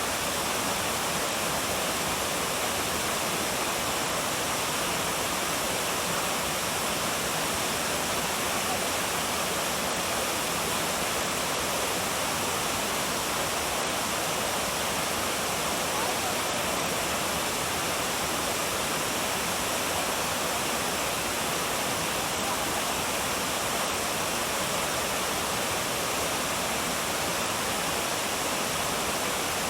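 Waterfall: a steady, unbroken rush of falling water with a hissy, full sound and no changes in level.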